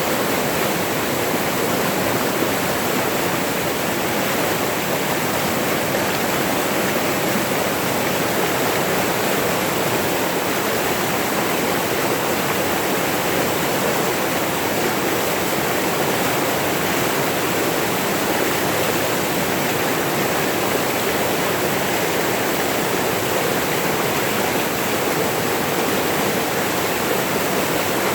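A forest stream or small waterfall rushing steadily, an even, unbroken water noise.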